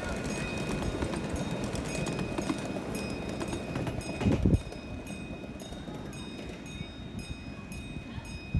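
Live-steam miniature locomotive running, a fast rhythmic clatter. There is a louder burst about halfway through, and the clatter is somewhat quieter after it.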